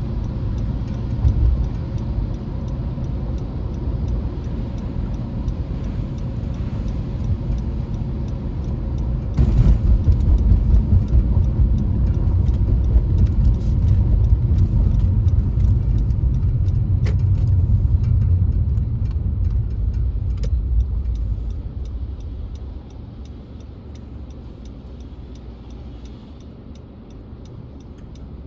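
A car on the move, with a low road-and-engine rumble that grows louder through the middle and eases off near the end. A faint, regular ticking comes in during the second half.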